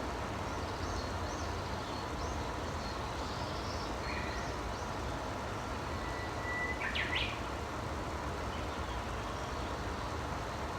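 Small birds chirping and calling now and then over a steady rushing background noise. About six seconds in, one bird holds a thin whistled note and then gives a quick burst of sharp notes.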